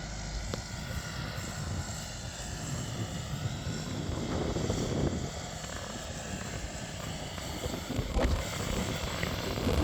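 Deutz-Fahr 5125G tractor's diesel engine running steadily, with a few short knocks near the end.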